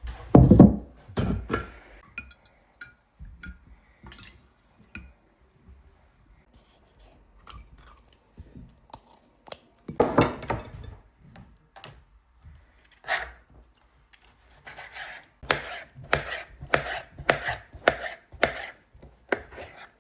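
Knife chopping food on a cutting board: scattered cuts at first, then a steady run of chops, about two or three a second, in the last few seconds.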